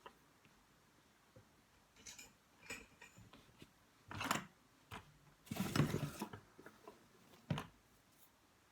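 Small tools and parts being handled on a workbench: scattered light clicks and rustles, with two louder rustling, scraping bursts about four and six seconds in and a sharp click a little later.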